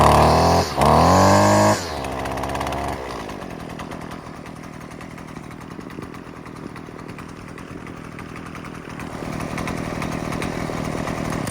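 A 28cc two-stroke string trimmer engine is blipped to high revs twice, then drops back and idles steadily while warming up after a cold start. It cuts off abruptly at the end.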